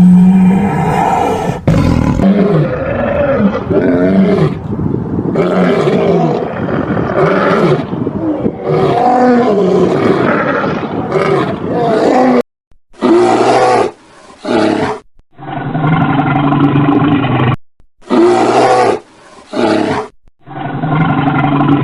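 A string of loud animal roars and growling calls, pitched and wavering. The sound cuts off and restarts several times in the second half, each time sounding different, like separate clips joined together.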